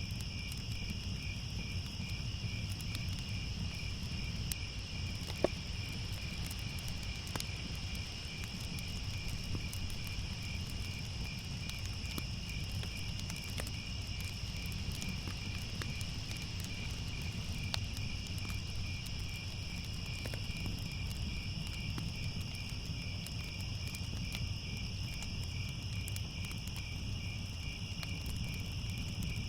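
Crickets chirping in a steady, pulsing chorus over a low rumble, with scattered sharp crackles, the loudest about five seconds in.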